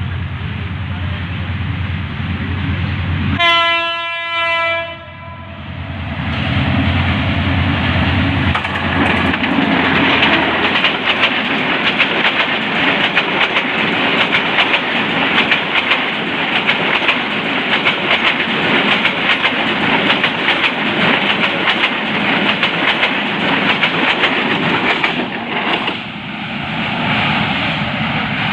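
A Bangladesh Railway diesel train: a low steady rumble, then the locomotive's horn sounds once for about a second and a half. After that the train runs loudly at speed, with wheels clattering on the rail joints, until the sound cuts off at the end.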